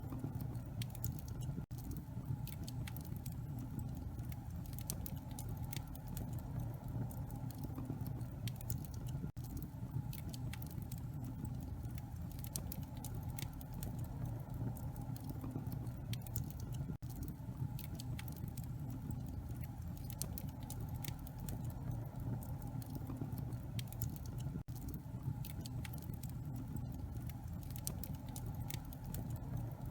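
Wood fire burning in a fireplace: a dense, irregular stream of small crackles and pops over a steady low rumble of the flames.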